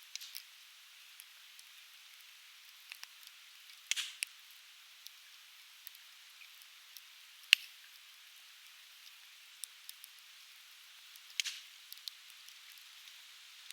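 Softwood campfire crackling: scattered sharp pops and snaps from burning conifer logs, the loudest about halfway through and small clusters near the start, middle and end, over a steady hiss.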